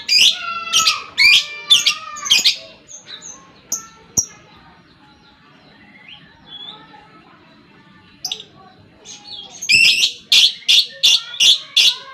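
Lovebird chattering in its 'ngekek' song: a fast run of loud, shrill, harsh chirps for about two seconds. Softer scattered twitters follow, then another quick run of shrill chirps, about four a second, near the end.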